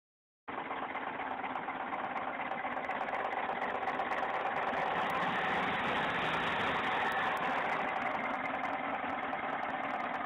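Car engine running steadily. It cuts in abruptly about half a second in.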